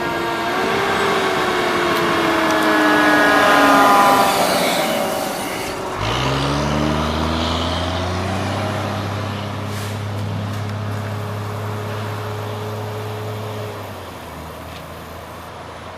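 Fire engine passing, its siren winding down in pitch and fading. About six seconds in, a heavy truck's diesel engine picks up and pulls away steadily, dropping off near the end.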